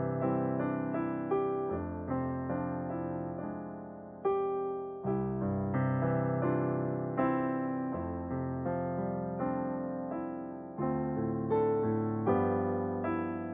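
Piano music: chords and a melody, each note struck and left to ring and fade, with fresh chords about every second.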